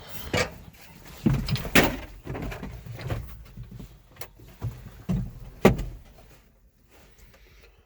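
Clunks and knocks of climbing into the John Deere 3155's cab and working its door, with a sharp bang a little after five seconds; the engine is not running yet. The knocks die away near the end.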